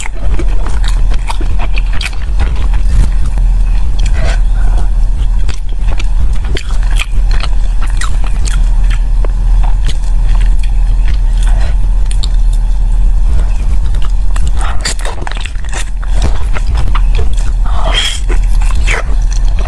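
Close-miked chewing and wet mouth clicks of someone eating sticky glutinous-rice zongzi, with a bigger bite near the end. A steady low hum runs underneath.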